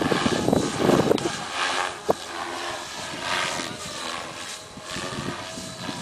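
Protos Carbon 500 electric RC helicopter with a brushless motor flying, its motor and rotor whine gliding up and down in pitch, with gusts of wind on the microphone. A single sharp click about two seconds in.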